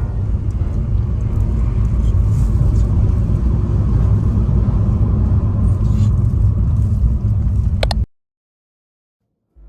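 Steady low rumble of a vehicle in motion, which cuts off abruptly near the end.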